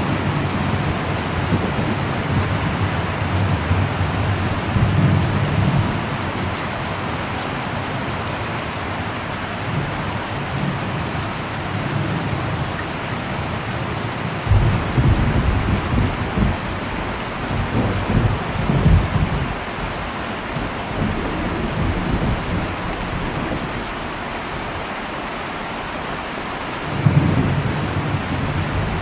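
Heavy rain falling steadily on an old metal roof, with thunder rumbling low over it: a roll at the start, a longer one from about halfway through, and another beginning near the end.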